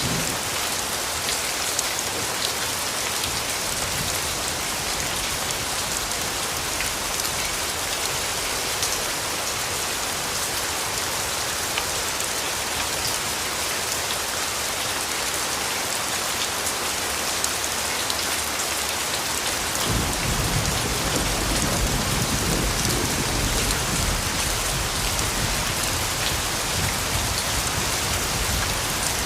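Steady rain falling, an even hiss of raindrops with scattered drop ticks. About two-thirds of the way through, a low rumble of thunder sets in under the rain and carries on.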